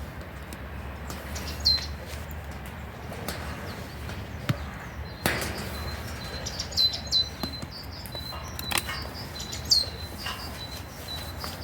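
Small birds chirping, with short high calls and quick downward-sliding notes scattered throughout, and a few sharp clicks or knocks in between.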